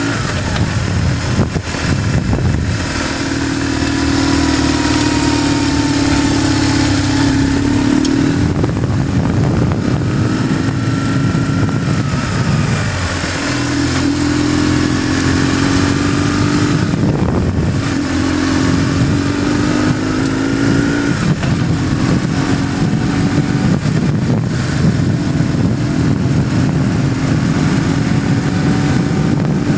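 BMW GS motorcycle engine pulling under way, its pitch climbing and then dropping back several times as the rider shifts or rolls the throttle. Under it runs a steady rush of wind and road noise.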